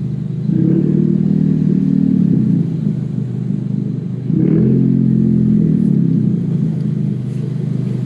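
Car engine running at low speed, its pitch rising twice as the throttle is opened, about half a second in and again about four and a half seconds in, each time settling back down.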